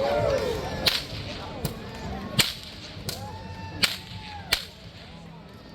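A street performer's whip cracking six times in an even rhythm, about one crack every three-quarters of a second, with crowd voices faintly behind.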